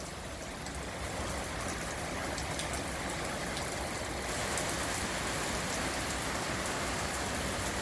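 Heavy rain pouring down steadily, with a few sharp drop ticks close by; it swells a little about a second in.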